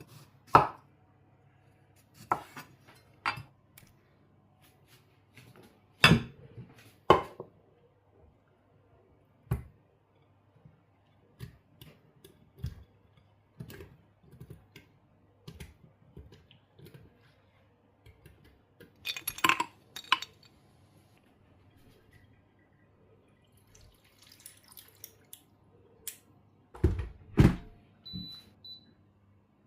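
Kitchenware handled during cooking: dishes, utensils and glass knocked and clinked down one at a time, with a few louder knocks and a short run of bright clinks partway through.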